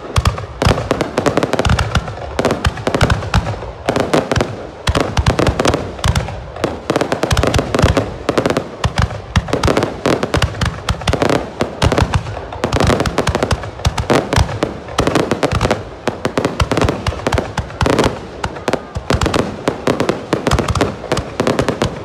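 Aerial fireworks display: a dense, continuous barrage of bursting shells, many sharp bangs and crackles each second with no pause.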